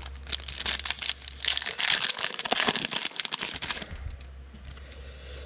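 A foil trading-card pack wrapper being torn open and crinkled by hand for about three and a half seconds, a dense run of crackles that stops near the four-second mark.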